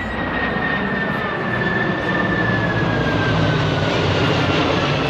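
C-5 Galaxy, a four-engine jet airlifter, flying past: a steady rush of engine noise with a high turbine whine that slowly falls in pitch.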